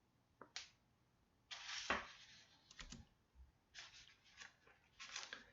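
Faint, scattered clicks and short rustling noises, about half a dozen, spread unevenly through the pause.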